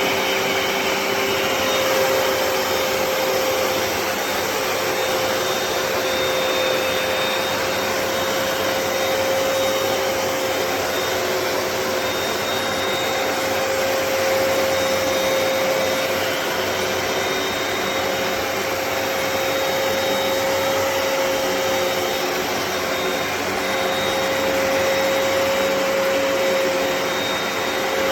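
Hoover PowerDash Pet compact carpet cleaner's suction motor switched on and running steadily, with a constant whine over the rush of air.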